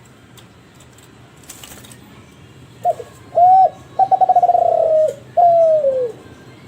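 Spotted dove of the Derkuku Kelantan breed cooing one phrase about three seconds in: two short notes, a long rolling note, then a last note that slides down in pitch.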